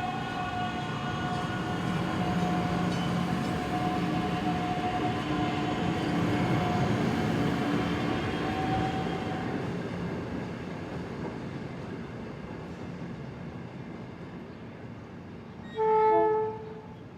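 NICTD South Shore Line electric commuter train running past, a steady tone over the rumble of the train, slowly fading after about ten seconds. A short train horn blast near the end.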